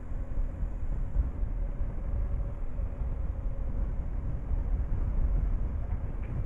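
Motorcycle on the move: wind buffeting the microphone over the steady drone of the engine, with a faint steady note that fades away about halfway through.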